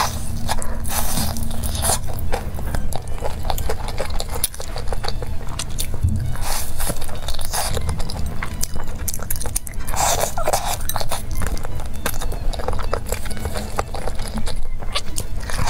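Close-miked biting and chewing of crispy breaded fried chicken: irregular crunching and crackling of the coating with wet mouth sounds, with several louder crunches.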